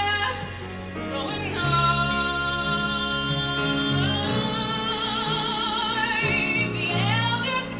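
Musical-theatre song: a female singer holds long notes with vibrato over a band of piano, strings, bass and drums. About four seconds in she sustains one long note for some three seconds, then slides up into the next phrase near the end.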